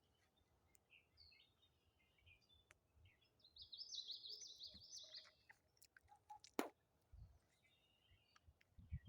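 Faint songbird singing: a few scattered chirps, then a fast run of repeated high notes lasting about two seconds. A single sharp snap comes near the end.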